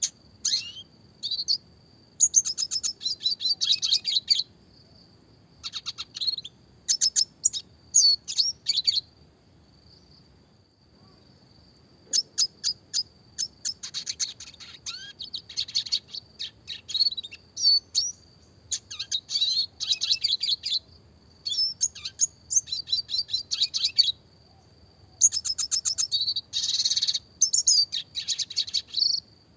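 Red siskin (Spinus cucullatus) singing: phrases of fast trills and twittering chirps, each a second or two long, separated by short pauses, with a longer pause about a third of the way in.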